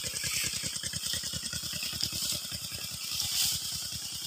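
Small motorcycle engine running slowly, an even putter of about a dozen beats a second.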